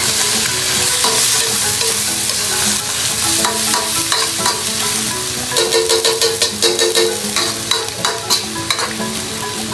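Pork intestine stir-fry sizzling in a hot pan as it is stirred. From about halfway on, the utensil clacks against the pan in quick, irregular knocks.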